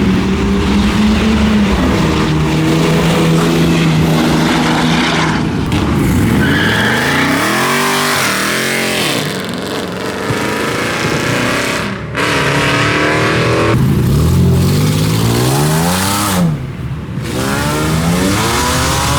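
Performance car engines revving hard, the exhaust note climbing and falling in several sharp rev sweeps, loud throughout.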